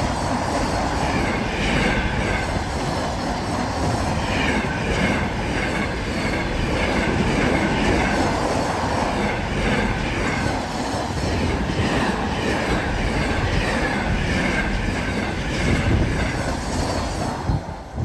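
Container freight train passing at speed: the wagons' wheels run over the rails in a regular, rhythmic clatter with a steady rush of noise. The sound drops away suddenly at the very end.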